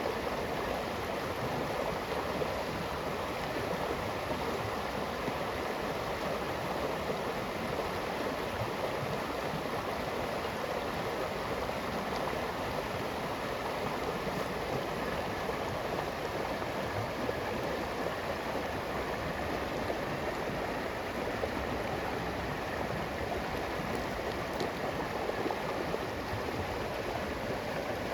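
River water flowing and rushing steadily over rocks, an even continuous wash of sound.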